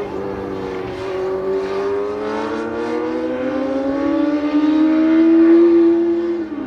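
Car engine accelerating under load, its pitch climbing steadily through one gear, then dropping sharply near the end at an upshift.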